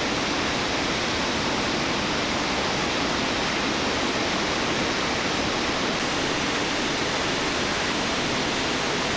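Waterfall pouring steadily: a constant, even rushing of falling water.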